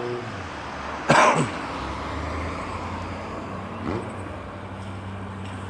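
Jansno X50's small engine running steadily under way, with wind and road noise. A brief cough-like burst comes about a second in.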